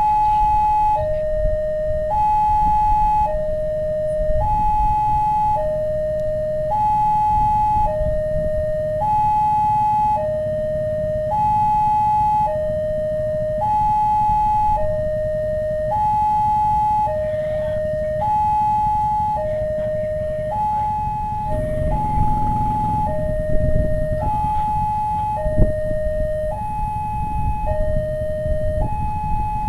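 Two-tone hi-lo warning siren sounding steadily, alternating between a higher and a lower tone about once a second with no change in pitch, over a low rumble that grows heavier about two-thirds of the way through.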